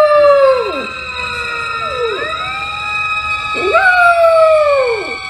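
A siren sounding steadily while a dog howls along with it, three long howls each sliding down in pitch.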